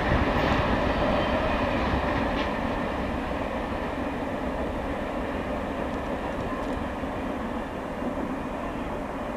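A long intermodal freight train rolling away, its steady wheel-and-rail rumble slowly fading as the last cars recede.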